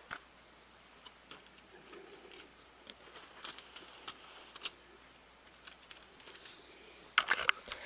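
Scattered faint clicks and light taps of small objects being handled, with a few louder clicks and knocks close together near the end.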